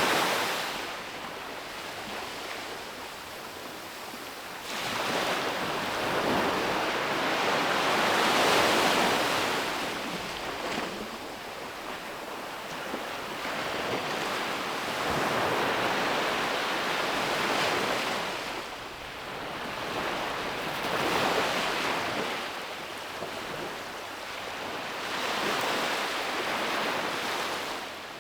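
Sea waves breaking on a beach: the surf swells and fades every few seconds in repeated washes.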